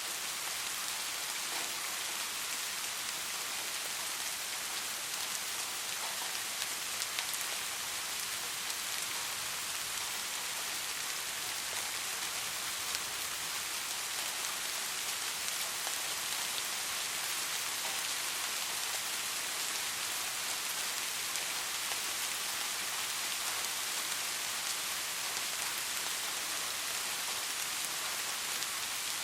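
Steady, soft rain falling, an even hiss with scattered faint drop ticks.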